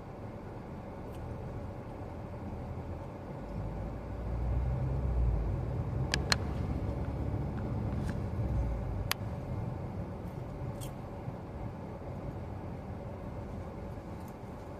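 Inside a moving car: low engine and road rumble that swells for a few seconds in the middle, over the steady hum of the air conditioning blowing. A few sharp clicks come around the middle.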